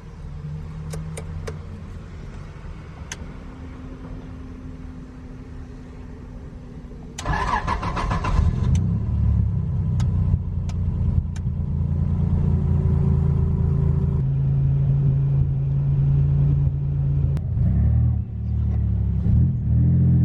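Nissan 300ZX's V6 engine, running quietly at first, then suddenly much louder about seven seconds in. It keeps running loud and steady after that, with the revs rising in a few quick climbs near the end.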